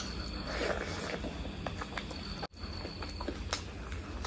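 Close-up eating sounds of someone chewing big pieces of mutton curry: scattered short wet clicks and smacks over a steady background hiss, broken by a brief dropout about halfway through.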